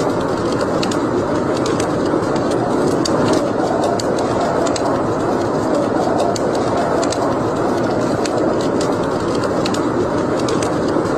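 Wood fire in a fireplace crackling, with frequent sharp irregular pops and snaps over a steady rushing noise.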